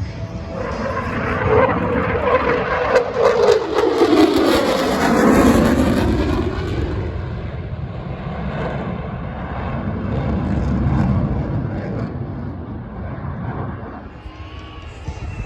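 F-35 Lightning II's F135 turbofan on a high-speed pass: the jet roar builds, peaks about four to five seconds in with its pitch dropping as the jet goes by, then fades to a lingering rumble.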